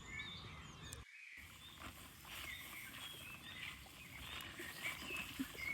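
Birds chirping and calling, many short high notes overlapping, over a low steady rumble.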